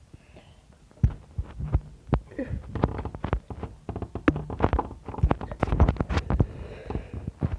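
Fireworks going off: a rapid run of bangs and crackling pops that starts about a second in and dies away near the end.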